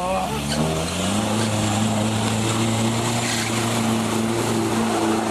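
A Land Rover's engine revving up over about the first second and then held at high, steady revs as the 4x4 drives through deep mud ruts.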